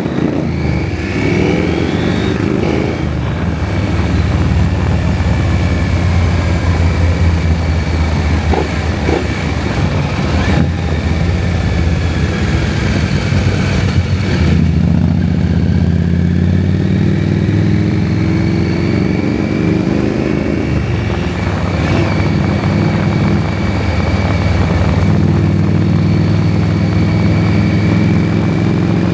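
KTM 790 Adventure's parallel-twin engine running under way, its pitch climbing and settling several times as the bike accelerates through the gears.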